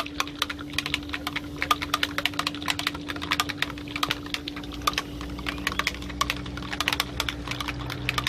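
A bottle of trim-restoring product being shaken by hand: a rapid, irregular clicking rattle over a steady low hum.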